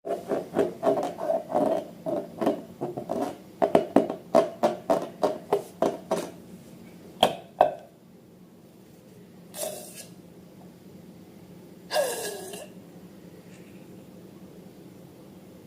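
Wet slime being squeezed and worked by hand in a quick run of squelches, about four a second, for the first six seconds. Then come two sharp clicks and a few short breathy sounds that fall in pitch.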